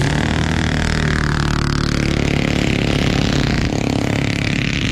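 Engine running steadily, with one pitch falling between about one and two seconds in.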